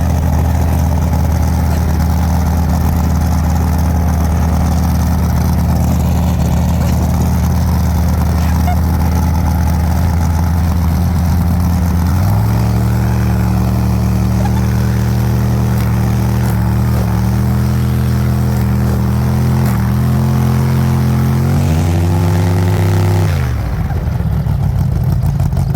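An engine running loudly and steadily. About twelve seconds in it is revved up to a higher pitch, shifts up and down a few times, then winds down near the end.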